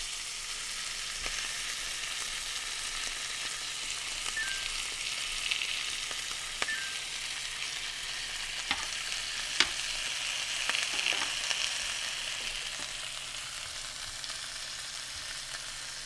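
Sliced apples and onions sizzling as they sauté in a nonstick skillet, beside a pork loin searing in its pan. Metal tongs click against the pan a few times during stirring.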